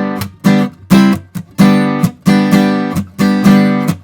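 Acoustic guitar strummed in a rock-style pattern: full chords about twice a second with quicker strokes between, each chord ringing out.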